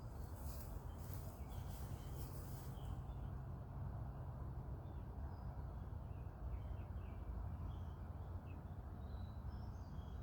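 Faint, scattered bird chirps over a steady low rumble, with a few brief high hissy rustles in the first three seconds.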